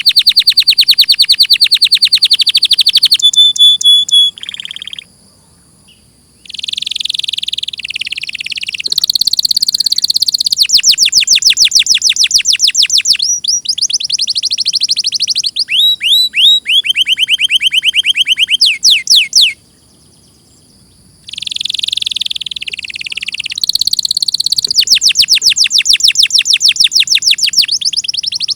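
Domestic canary singing: loud phrases of fast trills and rapidly repeated high notes, changing from one trill to the next, with a few sweeping notes in the middle. The song breaks off briefly twice, about five seconds in and near twenty seconds.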